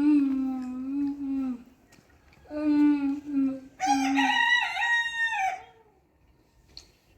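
Rooster crowing: several drawn-out calls, the last one higher and the loudest, with a dip in pitch in the middle.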